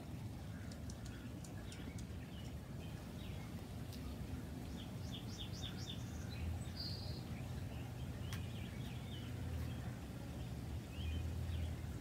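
Songbirds chirping: scattered short high calls and a few quick runs of notes, over a steady low rumble.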